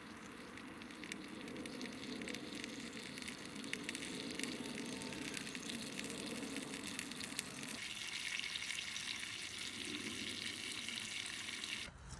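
Food frying in a pan over a campfire, a steady sizzle with many small crackles. The sizzle turns brighter and hissier about eight seconds in, then cuts off abruptly near the end.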